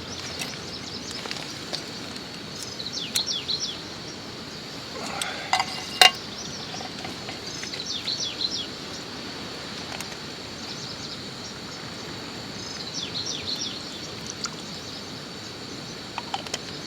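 Small birds chirping in short quick clusters every few seconds, over a steady high insect whine and a background hiss. A single sharp knock about six seconds in.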